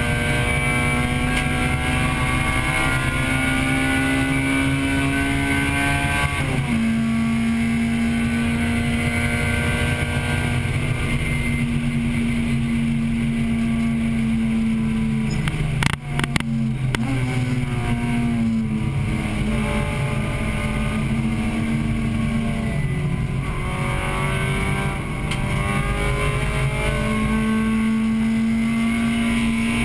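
Acura Integra Type-R's high-revving four-cylinder engine at race pace, heard from inside the car. The revs climb, drop sharply at an upshift about six seconds in, then climb again. A few sharp knocks come about halfway, then the revs fall away for several seconds under braking before climbing again near the end.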